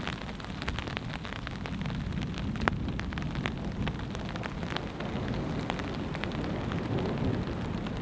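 Rain falling on a tarp overhead, individual drops ticking sharply on the fabric over a steady patter, with a low rumble of distant thunder underneath.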